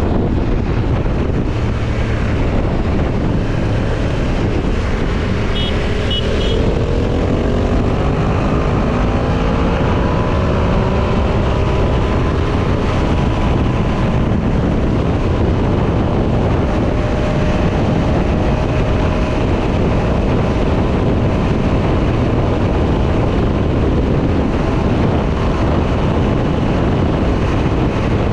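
Heavy wind rush on the microphone at speed, with a parallel-twin adventure motorcycle engine accelerating hard. Its pitch rises for several seconds and then settles into a steady high-speed drone.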